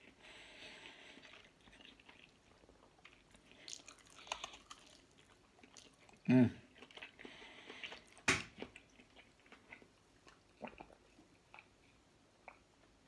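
A person chewing and biting food close to the microphone, with soft wet mouth sounds and scattered small clicks. A short pitched hum comes about six seconds in, and a sharp click about eight seconds in.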